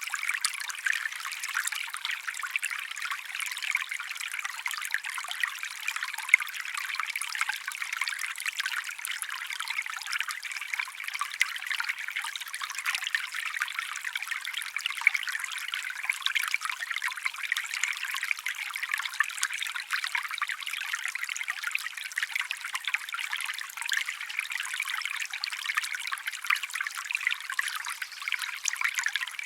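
A small stream trickling steadily, a continuous bright splashing with no low rumble.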